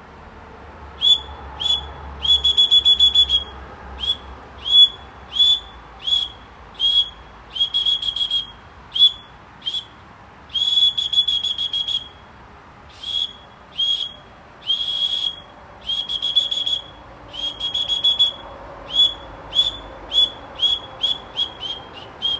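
A high whistle in short bird-like chirps, all at one steady pitch. Some notes are quick, some are held for about a second, and some are fast trills. They repeat many times with brief gaps and come faster near the end.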